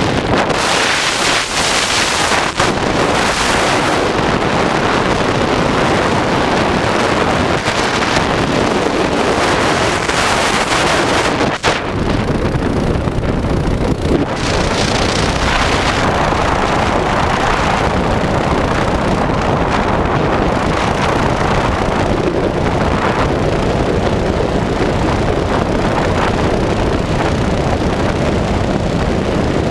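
Mini bike engine running under way with heavy wind buffeting the microphone, steady throughout with a brief dip about twelve seconds in.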